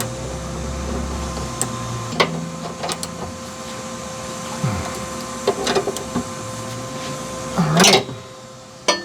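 Irregular metallic clicks and knocks of hand tools working the rear suspension bolts, over a steady background hum. A louder cluster of clanks comes near the end.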